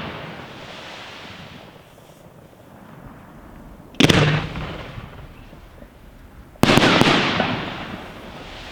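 Two large 5-inch aerial firework shells bursting, about four seconds in and again near seven seconds, the second as a quick double bang. Each sharp report is followed by a long echoing rumble that fades over about two seconds.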